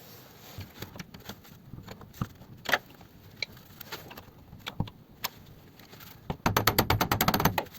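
Metal hand tools being handled: scattered clinks and knocks, then a quick rattling run of rapid clicks about a second before the end.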